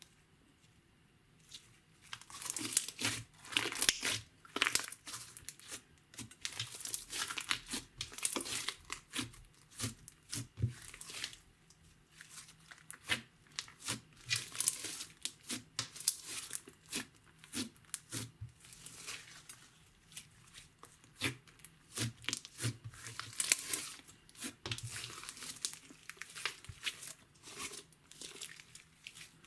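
Glittery slime being stretched, pressed and squished by hands, giving irregular crackles and pops that start about two seconds in.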